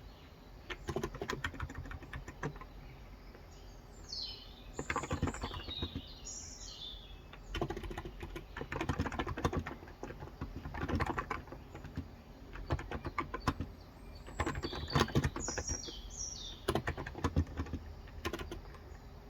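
Typing on a Cox Endeavor electrostatic capacitive (non-contact) keyboard with light 35 g keys, in bursts of fast keystrokes with short pauses between. Birds chirp in short high runs twice, about four seconds in and again about fifteen seconds in.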